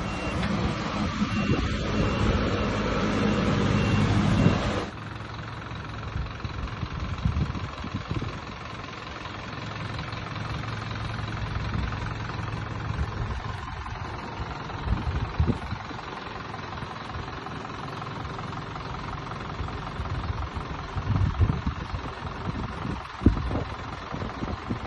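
Vehicle engine running, with a regular high-pitched beeping over it for the first five seconds. It then cuts suddenly to quieter steady outdoor vehicle noise with occasional low knocks.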